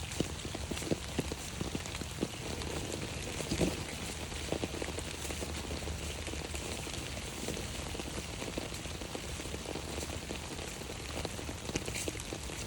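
Rain falling on an umbrella: a steady hiss with many separate drop taps scattered through it.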